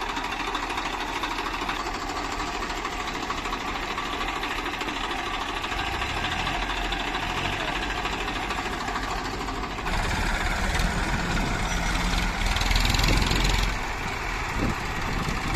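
Diesel engine of heavy earth-moving machinery running steadily, then pulling harder and louder from about two-thirds of the way in before easing back near the end.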